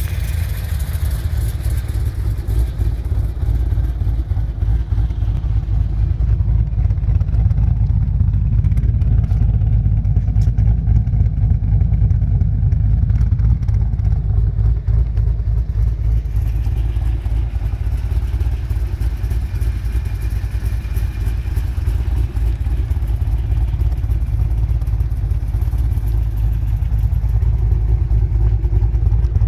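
GM LS-series V8 with a 228/228-duration camshaft on a 113° lobe separation angle, idling steadily at 800 rpm, heard at the exhaust.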